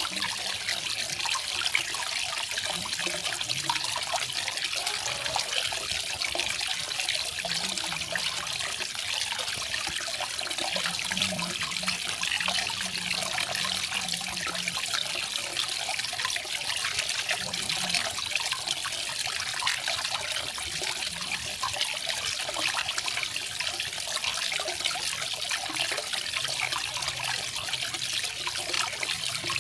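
Small garden waterfall splashing and trickling in a steady, even stream.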